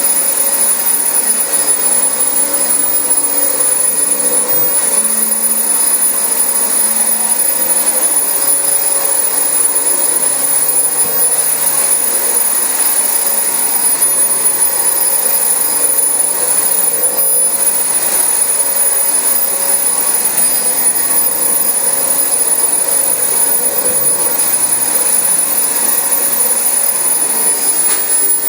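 Dyson DC25 upright vacuum cleaner running steadily on carpet: a constant rush of air with a steady high whine over it.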